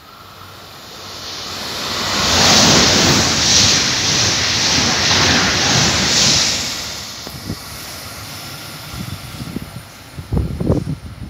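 ICE high-speed train passing through the station at speed without stopping: a rushing noise that swells over a couple of seconds, holds for about four, then fades away. A few low thumps come near the end.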